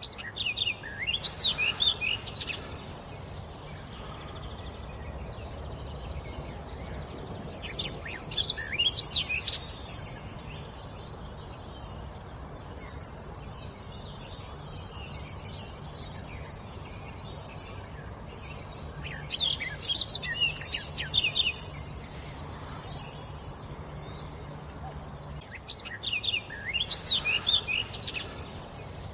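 A songbird singing four phrases of quick, high, bouncing notes, each phrase about two seconds long with pauses of several seconds between them, over a steady background hiss.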